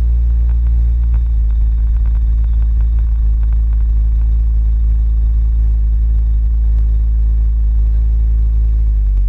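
A vehicle engine running at a steady speed under a heavy low rumble. Its pitch dips slightly near the end.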